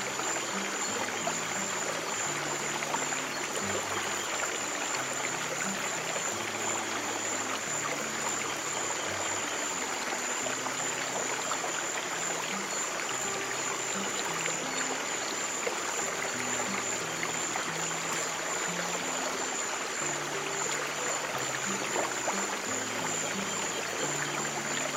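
Steady rushing of a flowing stream, with soft, slow low piano notes changing every second or two beneath it and a thin steady high tone above.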